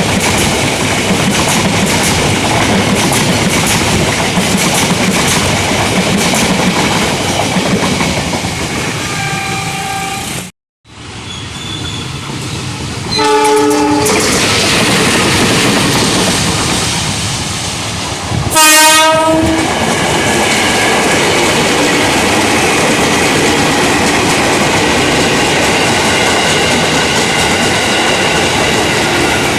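A train running past with wheels clattering on the rails, while a train horn sounds several times: short calls about 9 and 13 seconds in and a loud blast a little after halfway. The sound drops out briefly for a moment just after 10 seconds.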